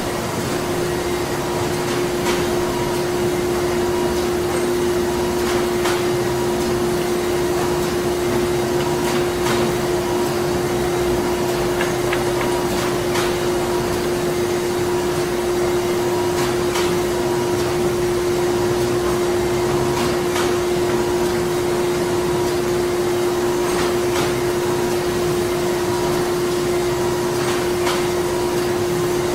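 Printing-plant machinery running steadily: a continuous mechanical hum with a strong drone note, a fainter higher tone pulsing on and off, and light clicks every couple of seconds.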